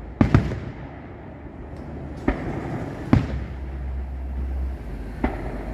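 Aerial fireworks shells bursting: about five sharp bangs at uneven spacing, the loudest two close together near the start, over a steady low rumble.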